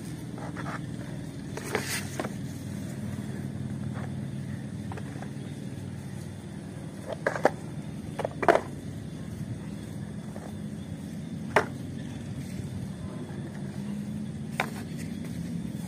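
Plastic toys knocking and clicking as they are handled and dropped into a plastic basket, a few sharp knocks spread out, with the loudest pair about seven to eight and a half seconds in. A steady low hum runs underneath.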